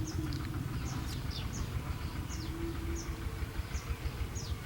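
Small birds chirping: short, high, downward-sliding notes, about two a second, over a steady low rumble.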